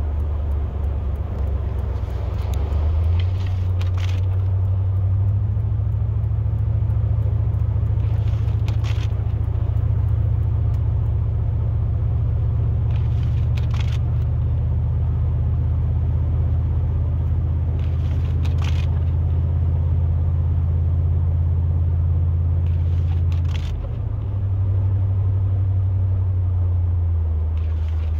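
Truck engine and road noise droning steadily from inside the cab, stepping up a few seconds in and dipping briefly near the end. A faint short swish comes about every five seconds.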